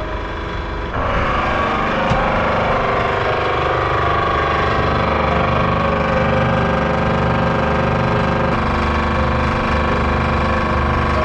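A motor or machine running loudly and steadily, with a low rumble under several steady whining tones.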